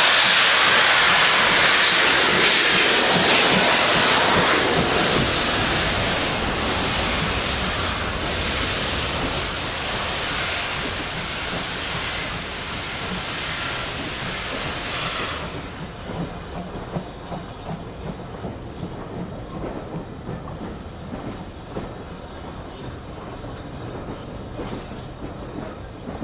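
A steam train passing: a loud hiss with a high squeak repeating about once a second, which cuts off suddenly about fifteen seconds in. It leaves the rhythmic clickety-clack of carriage wheels over rail joints, fading as the train moves away.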